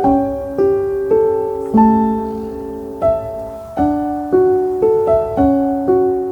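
Gentle solo piano background music: single notes and soft chords struck about twice a second, each ringing and fading.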